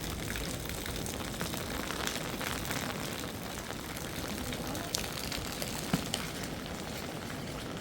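Steady rain falling and hissing on surfaces, with a few sharper drop taps about five to six seconds in.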